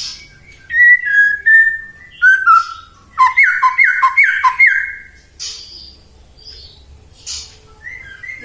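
White-rumped shama singing: clear whistled notes mixed with high, thin trills, and a run of four loud quick down-slurred whistles about three seconds in.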